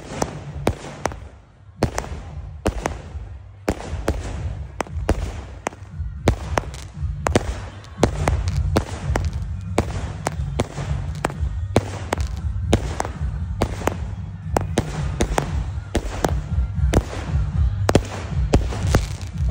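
A 49-shot consumer firework cake firing its shots one after another: a long string of sharp bangs, about two or three a second, as the shells burst overhead.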